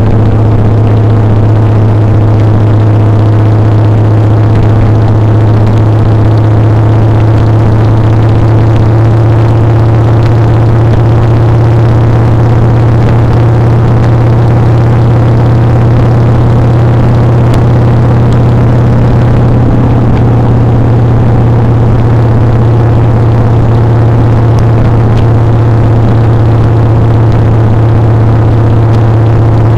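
Motorcycle engine running loud and steady at an even speed while riding, with a strong low hum that holds the same pitch.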